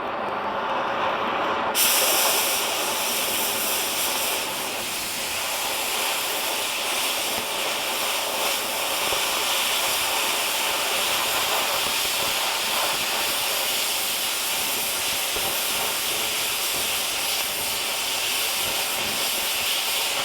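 Oxy-acetylene cutting torch hissing steadily as it cuts steel; about two seconds in, the hiss turns sharper and louder and then holds.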